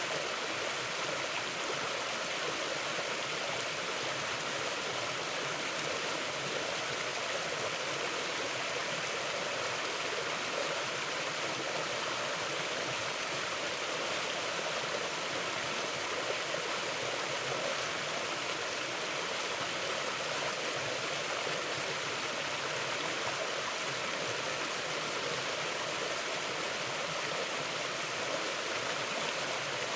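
Mountain river flowing over rocks: a steady, even rush of water with no change.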